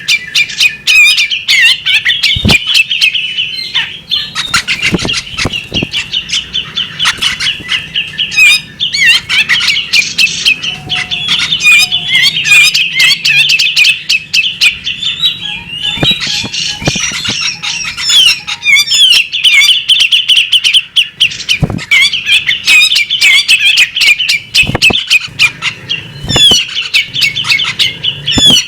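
Female magpie-robin singing a long, unbroken run of rapid, varied chirping notes, with frequent sharp clicks mixed in.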